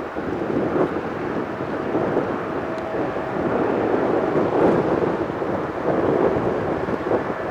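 Steady rumble of a Boeing 787-9's jet engines on arrival, swelling through the middle and easing off a little near the end.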